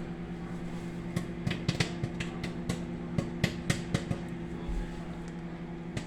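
Microwave oven running with a steady hum while popcorn pops inside it: sharp, scattered pops at irregular intervals, typical of the popping nearing its end.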